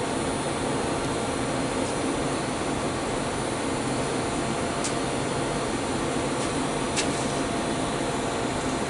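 Steady, even mechanical hum with a whooshing quality, like a running fan or blower, with two faint light clicks in the second half.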